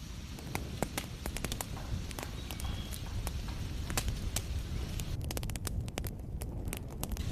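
Wood fire crackling, with frequent sharp snaps and pops over a low, steady rumble.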